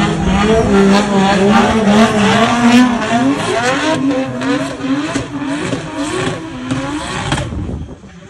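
Drift cars' engines revving hard, the note rising and falling in quick waves as the throttle is worked through a tandem slide on a wet skidpad. The sound drops away about seven and a half seconds in.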